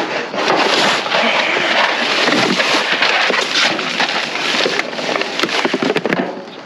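Rummaging through a dumpster: a continuous rustling and clattering of packaged goods, bags and boxes being shifted, with many small knocks, easing off near the end.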